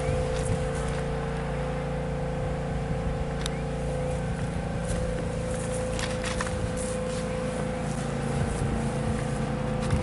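Small single-cylinder gasoline engine of a Briggs & Stratton-powered pressure washer running steadily at constant speed, with a few light clicks.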